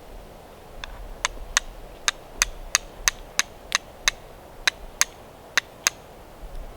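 Flint and steel being struck to throw sparks: about fourteen sharp, ringing strikes, roughly three a second, stopping about a second before the end.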